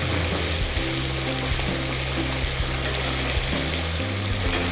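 Background music with held low notes, over the even sizzle and bubbling of a coconut-milk curry simmering in a wok.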